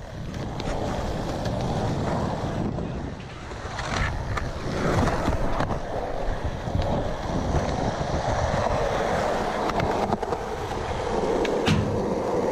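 Skateboard wheels rolling on skatepark concrete with a steady rumble, broken by a couple of sharp clacks from the board, one about four seconds in and one near the end.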